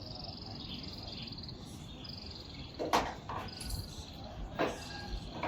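An animal's high, rapid trilling call repeated in phrases of about a second, with two sharp knocks about three and four and a half seconds in that are the loudest sounds.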